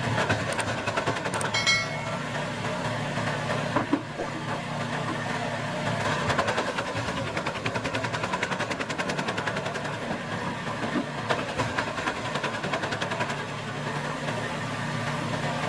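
Gas-powered wood chipper running, its small engine steady under a fast, even rattle as branches are chipped. A short high whine comes about two seconds in and a single knock at about four seconds.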